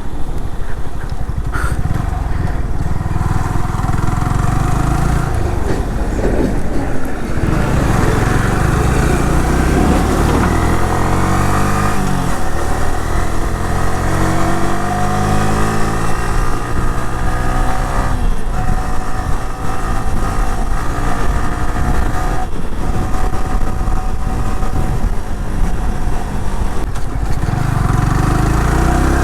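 Motorcycle engine running while being ridden, its pitch rising and falling several times as the rider works the throttle.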